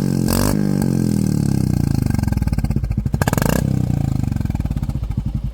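Royal Enfield Classic 350 Reborn single-cylinder engine revved through an aftermarket HK Indori 'Old is Gold' silencer. The revs fall away, there is a short throttle blip about three seconds in, and then it settles into a slow, even thumping idle near the end.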